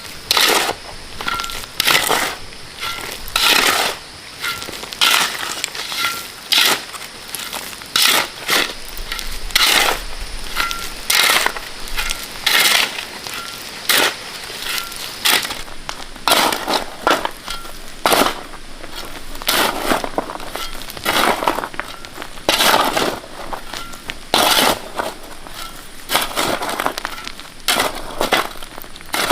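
A shovel scraping and scooping through gritty concrete mix in repeated strokes, roughly one every second.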